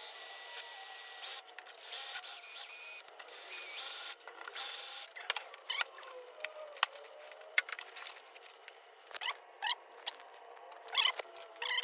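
Drill spinning a beaded ball hone inside an EZGO TXT gas engine's cylinder, run in four short bursts over the first five seconds with a high whine and a scraping hiss. After that come scattered light clicks and rubbing of metal parts.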